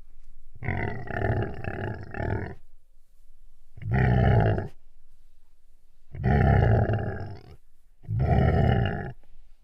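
Tiger roaring: four long roars with short pauses between them, the first and longest pulsing several times.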